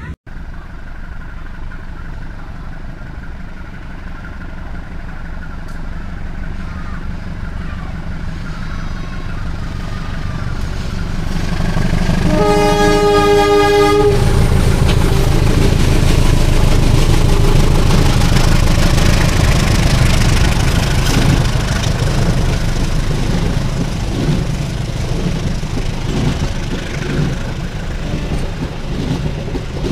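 A diesel-electric locomotive hauling passenger coaches approaches, its rumble growing louder. About twelve seconds in it sounds one long horn blast of several tones lasting under two seconds. The locomotive then passes at its loudest, and the coaches roll by with wheels clattering over the rail joints.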